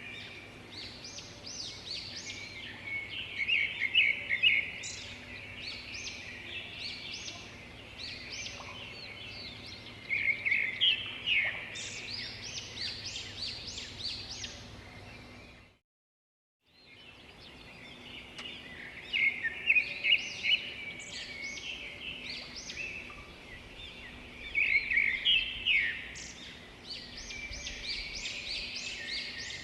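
Several birds chirping and trilling in a busy chorus over a steady background hum, with louder flurries of calls. The sound cuts out completely for about a second just past the middle, then the chorus resumes.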